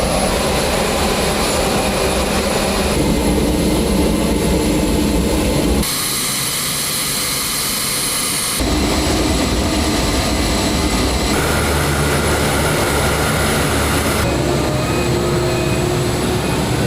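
Turboprop engines of a C-130J Super Hercules running with a steady, loud drone. The tone shifts abruptly several times, as if separate clips were cut together.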